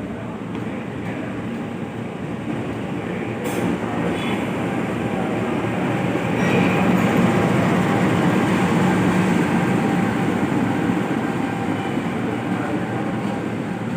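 Train passing, its rumble growing louder a few seconds in, staying loud through the middle and easing slightly near the end, with one short sharp click early on.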